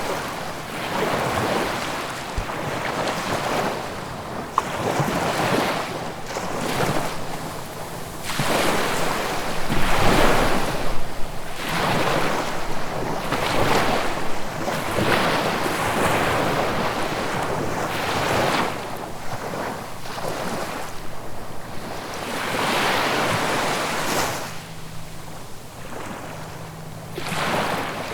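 Ocean waves washing onto the shore, surging and receding every couple of seconds in an unbroken rush of surf, with the loudest surge about ten seconds in.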